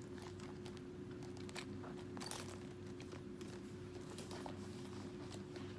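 A leather handbag being handled: scattered soft rustles and small clicks, with one sharp click a little over two seconds in, over a steady low hum.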